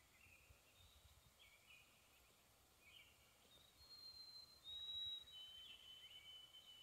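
Faint songbirds singing: scattered short chirps, then a few long, clear whistled notes from about four seconds in, each a little lower than the one before, the loudest near five seconds.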